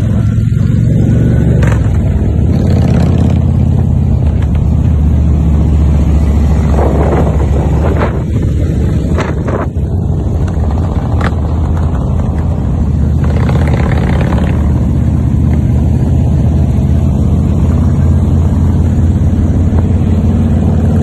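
Harley-Davidson V-twin motorcycle engines running steadily while riding on the road, a loud low rumble throughout. A couple of brief rushes of wind noise come about seven and thirteen seconds in.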